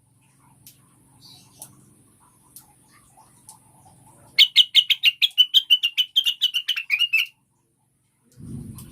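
Cucak wilis (blue-winged leafbird), a female calling: a loud, fast string of sharp chirps, about six a second, halfway through, slightly lower at the end. A faint low hum comes before the chirps, and a low rumble starts near the end.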